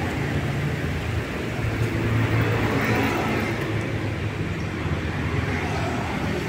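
Hyundai Stargazer's 1.5-litre four-cylinder petrol engine idling steadily, just started with the key fob's remote engine start.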